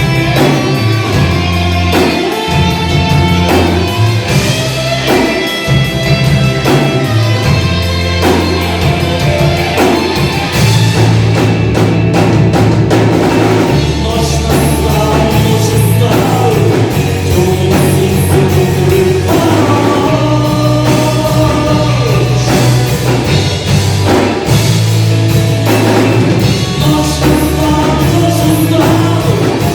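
Rock band playing live: drum kit, bass and guitars in a loud, steady rock song.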